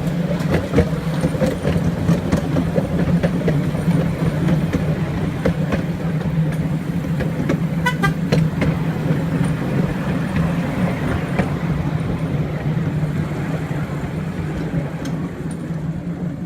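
Class 153 diesel railcar engine running steadily as the unit pulls away, with a brief high sound about eight seconds in.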